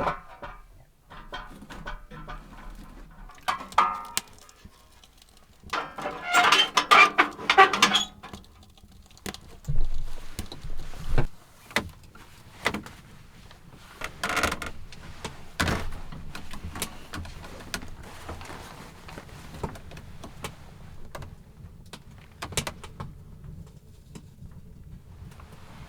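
Handling noises: a clattering, jingling rattle about six seconds in, then scattered knocks and clicks.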